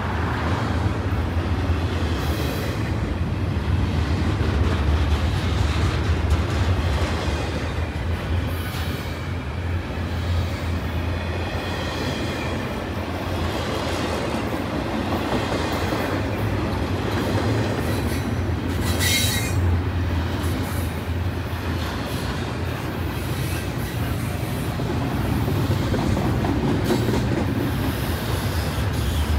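Intermodal freight train's double-stack well cars rolling past close by: a steady low rumble of steel wheels on the rail, with a brief high wheel squeal about 19 seconds in.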